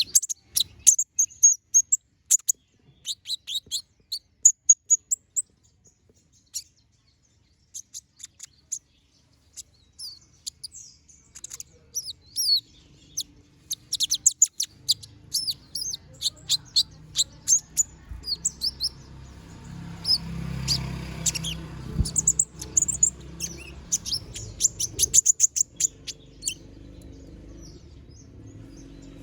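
Kolibri ninja (konin) sunbird singing in bouts of rapid, high chirps and trills, with a pause of several seconds after the first burst. The bird is in full song while moulting. A low rumble sits under the song for a stretch in the second half.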